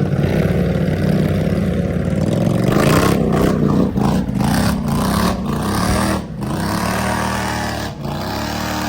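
ATV engine running and revving, its pitch rising and falling, with several sharp, brief breaks in the sound from about three seconds in until near the end.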